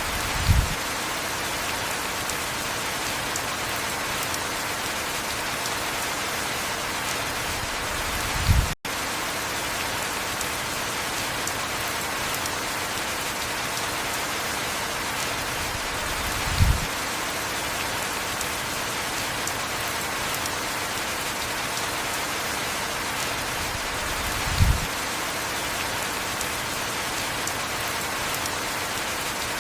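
Heavy rain falling steadily. A short, low thump comes four times, about every eight seconds, and the sound cuts out for an instant about nine seconds in.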